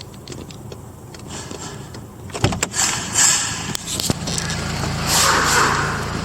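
Volkswagen Golf GTI's BWA 2.0-litre turbocharged four-cylinder engine being started: a few light clicks, then about two and a half seconds in the starter cranks and the engine catches. It flares up briefly past the middle, then settles into a steady idle near the end.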